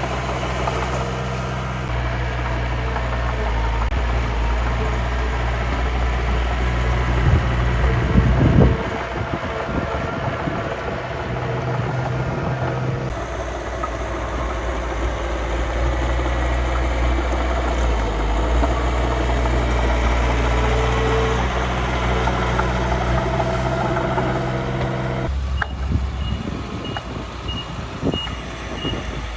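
Miniature earth-moving machine's engine running steadily. Its note shifts a few times, changing about a third of the way in and again near the end.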